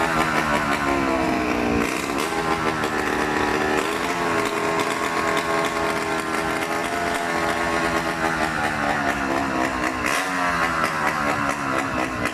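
Motorcycle engine running hard, its pitch rising and falling in slow repeated swells as the bike circles the wall of death.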